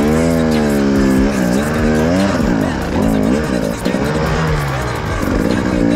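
Enduro dirt bike engine revving hard, its pitch climbing and falling repeatedly as the throttle is worked on and off.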